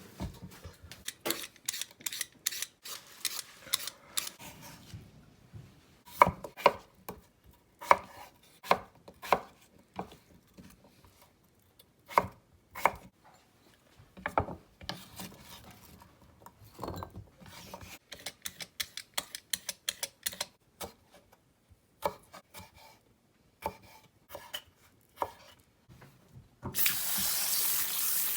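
Kitchen knife cutting on a cutting board: quick runs of light taps, then slower, heavier single cuts. A water tap starts running near the end.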